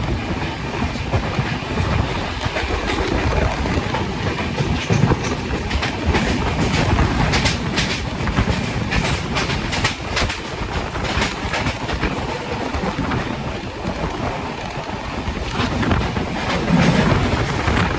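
Express passenger train coach running along the track, a steady rushing rumble with the wheels clicking over rail joints, the clicks thickest in the middle stretch.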